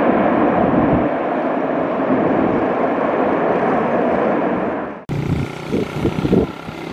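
Engine noise of a landing aircraft, a loud steady rush. It cuts off abruptly about five seconds in, giving way to a choppier, uneven sound.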